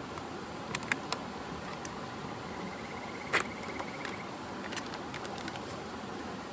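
Mountain stream rushing steadily, with a few sharp clicks and, about halfway through, a short fast-pulsing high trill.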